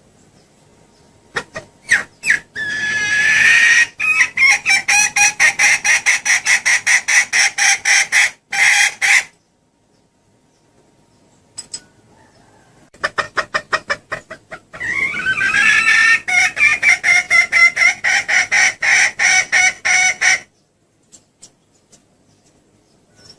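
Female junglefowl clucking in two long bouts of rapid repeated notes, about four a second, each bout opening with a longer drawn-out note. This is the hen's call used as a lure to draw in the cock.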